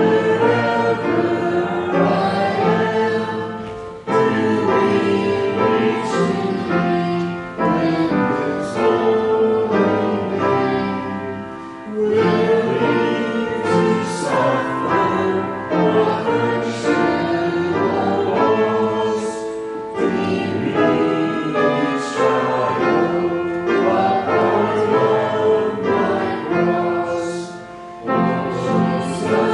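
Choir singing a hymn with musical accompaniment, in phrases a few seconds long with brief breaks between them.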